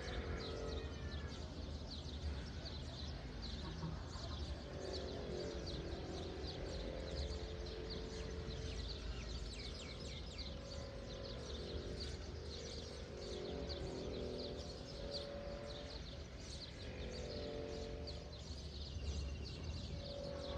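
A dense chorus of many small birds chirping in quick, short notes, with longer, lower-pitched calls coming and going over a steady low rumble.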